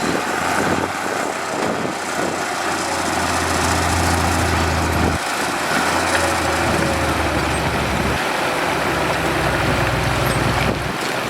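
Diesel engine of heavy earthmoving machinery running steadily, with a brief dip about five seconds in and a change in engine note a few seconds later.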